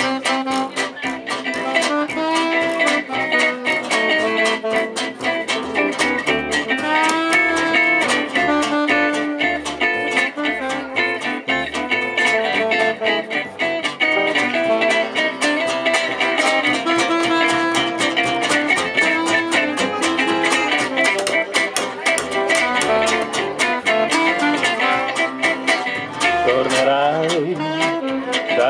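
Live gypsy jazz (jazz manouche) band playing an instrumental passage, with plucked acoustic guitars to the fore and dense, quick runs of notes.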